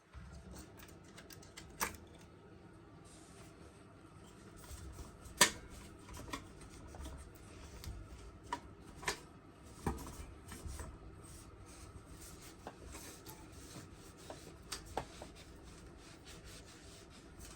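Scattered clicks and knocks of parts and tools being handled, about a dozen, with one sharp knock about five seconds in, over a low steady hum.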